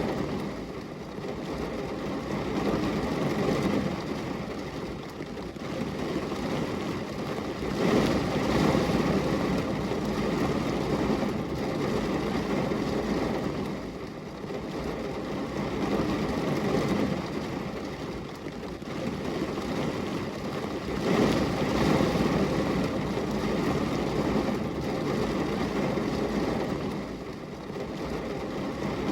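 Rain falling steadily: a dense, low rushing noise with no separate drops standing out, swelling and easing every few seconds.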